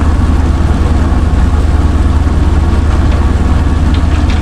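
Chevrolet C60 wrecker's engine idling steadily, with a low, even, rapid pulse.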